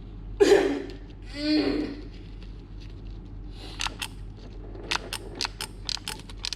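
A thump and a short voice-like sound, then a run of sharp, irregular clicks, two to four a second, from the automatic solder gun's trigger being worked to feed the solder wire.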